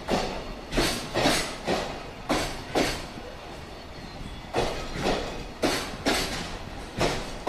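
Steel wheels of a departing freight train's Koki container flat wagons clattering over a rail joint: loud clacks, mostly in pairs about half a second apart, over a steady rolling rumble, with a lull of about a second and a half in the middle.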